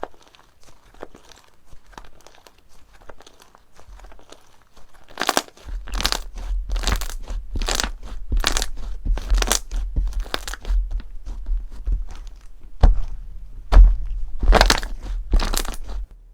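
Slime being squeezed and pressed by hand, making crunchy crackling squishes. It starts as faint crackles, then about five seconds in turns to a run of loud crunches, one every second or less, with dull low thuds under them.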